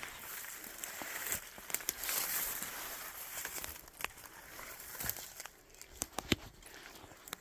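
Irregular crunching and crinkling with scattered sharp snaps, the loudest a little past six seconds in.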